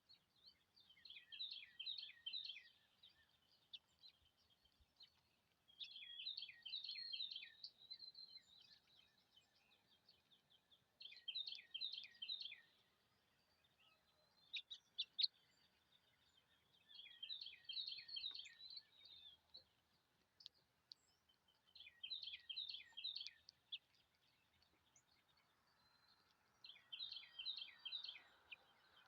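A songbird singing the same short phrase of quick falling notes, about every five seconds, six times, with a few sharp call notes in between near the middle.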